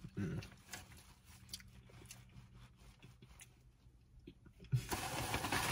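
Faint close-up chewing and mouth smacks, with scattered small clicks. Nearly five seconds in, a steady rushing noise comes up and stays.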